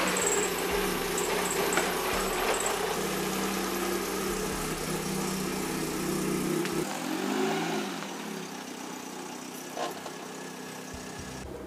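Volkswagen Rabbit's 16-valve 2.0-litre four-cylinder running at a steady idle after its oil change. About seven seconds in it revs up and back down as the car moves off, then it is quieter toward the end.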